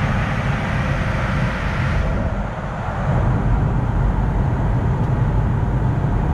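Steady interior noise of an Airbus A220 airliner: a deep rumble under a rushing hiss. A little after two seconds in, it dips briefly, then the hiss thins while the rumble grows stronger.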